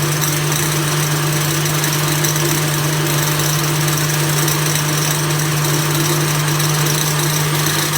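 Salter NutriPro 1000 blender's 1000 W motor running steadily, a loud noise with a strong low hum. The owner takes it for a motor fault: plastic fragments are falling from inside the base.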